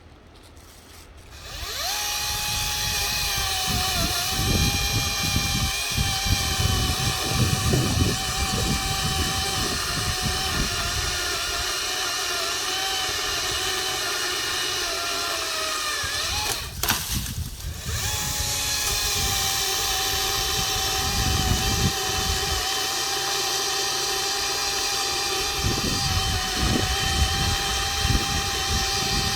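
Stihl HTA 85 battery pole saw running and cutting: a steady high electric motor whine with chain noise starts about 1.5 s in, its pitch wavering and sagging under load. It stops briefly about two-thirds of the way through and starts again.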